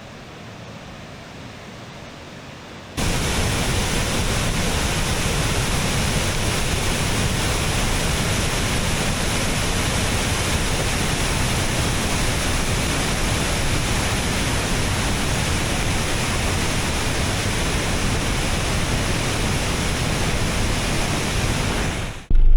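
Belorechensky waterfall, a wide fall running high with extra water, making a loud steady rush of falling water. A quieter water hiss for the first three seconds gives way abruptly to the much louder rush, which stops with a cut near the end.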